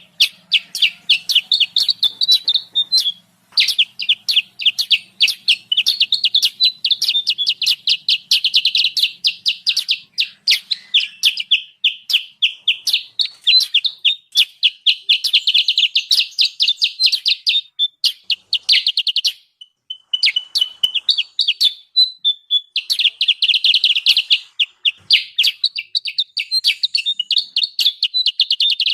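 Kutilang sutra bulbul giving rapid, agitated chattering chip calls, several a second, high-pitched. Brief breaks come about three seconds in and about twenty seconds in. This is the noisy "ribut" call used as a trapping lure.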